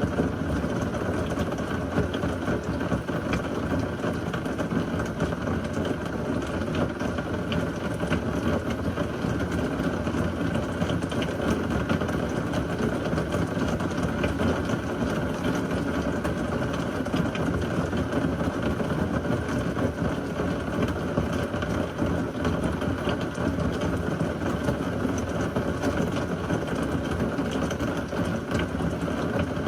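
Heavy rain from a severe thunderstorm falling steadily, an even dense hiss with many small drop impacts and no thunderclap.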